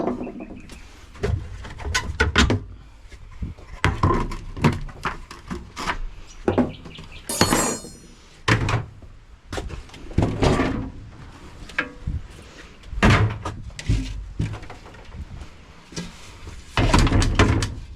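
Irregular knocks, thuds and clatter of plastic parts being pulled out of a fridge-freezer and tossed aside, with a brief squeak of plastic rubbing near the middle.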